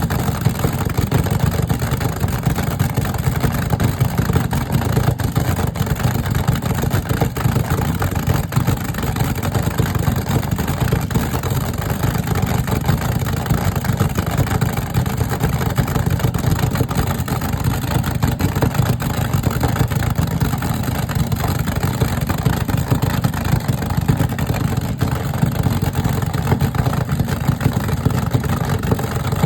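Car engines running, a steady low sound with no clear rises or breaks.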